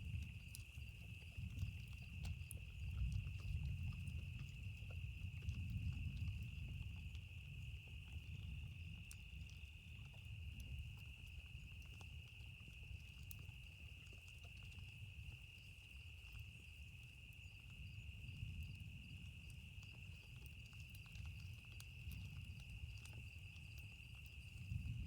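Campfire crackling with scattered small pops, under a low rolling thunder rumble that swells and fades, and a steady high-pitched chirring.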